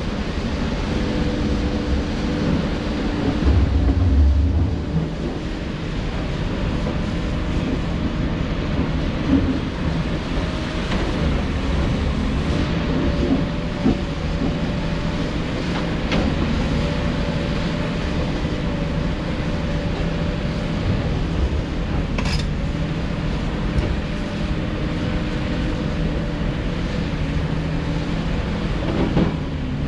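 Heavy earthmoving machine's diesel engine running steadily, with a low rumble about four seconds in and a few sharp knocks scattered through.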